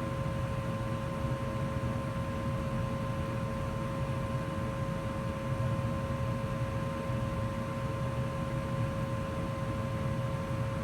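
2004 Goodman gas furnace running steadily in heat mode: a low rumble with a constant whine over it.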